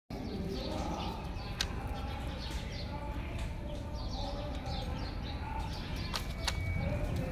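Birds chirping repeatedly in the background, with a few sharp clicks, one early and two close together near the end.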